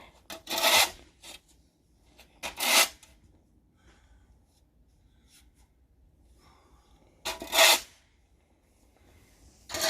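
Snow shovel scraping and scooping snow in four short rasping strokes, with a long pause between the second and third.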